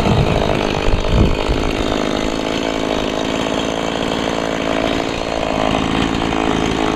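Stihl MS 170 chainsaw's 30cc two-stroke engine running continuously, rougher with a few low thumps in the first second or so, then steady.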